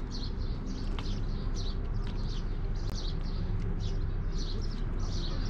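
Small birds chirping repeatedly outdoors, short high chirps about two or three a second, over a steady low rumble.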